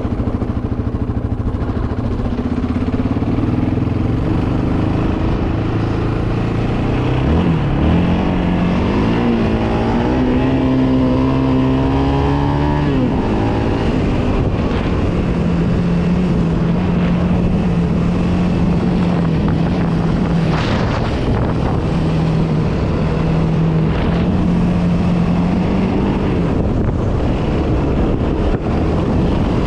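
Yamaha Raptor 700R quad's single-cylinder engine running under way. Its note rises about a quarter of the way in, holds, and falls just before the middle, then stays at a steady pitch through most of the rest.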